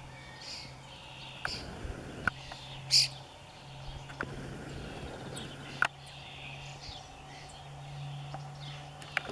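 Small birds chirping in short, scattered calls, one loud sharp chirp about three seconds in, over a steady low hum, with a few sharp ticks.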